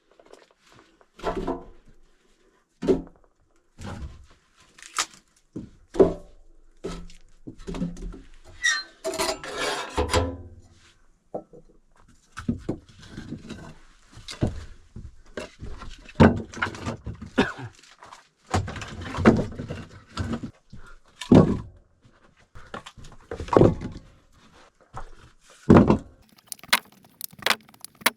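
Irregular wooden knocks and thuds, one every second or two, of firewood logs being handled and stacked.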